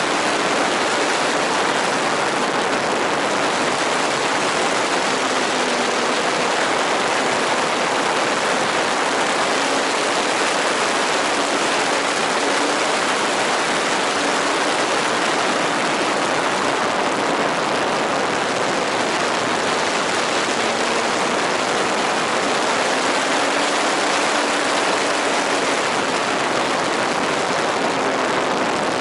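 Radio-controlled model airplane in flight: a steady rushing of air with a faint motor hum that drifts slightly up and down in pitch.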